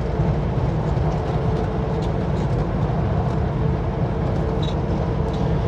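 Kenworth W900L semi truck's diesel engine running steadily at highway cruise, with a constant low drone and road noise.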